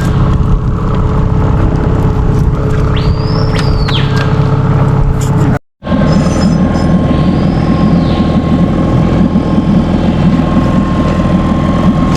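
Boat's outboard motor running steadily at speed. It cuts out abruptly for an instant just before the middle, then resumes.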